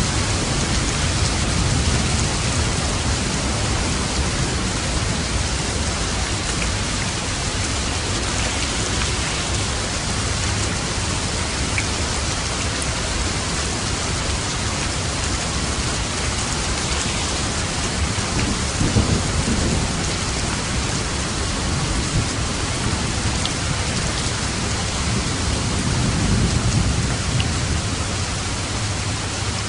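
Steady rain on a roof, with low thunder rumbling that swells near the start, about two-thirds of the way through, and again near the end.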